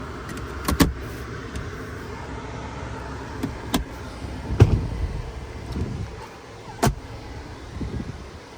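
A few sharp clicks and knocks, the loudest about halfway through, over a low steady rumble of a vehicle.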